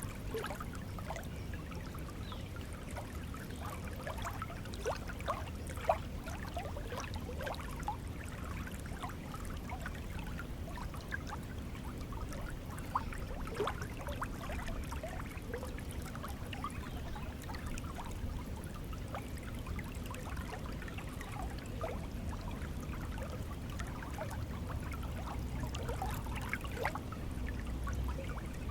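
A stream of water flowing and trickling, with steady bubbling and gurgling and a small splash about six seconds in.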